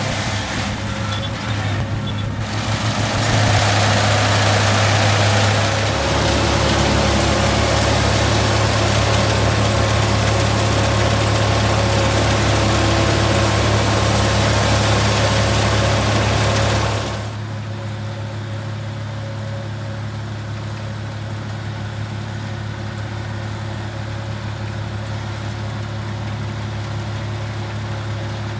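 Combine harvester engine running steadily with a low hum, a loud rushing noise over it until about two-thirds through, when that noise drops away suddenly and the engine runs on more quietly.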